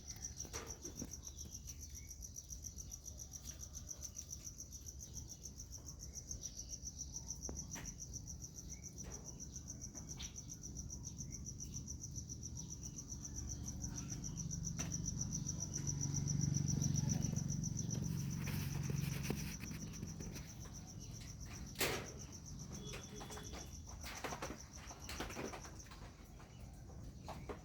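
A steady, high-pitched insect trill runs without a break, with scattered short bird chirps over it. A low rumble swells up about halfway through and fades a few seconds later.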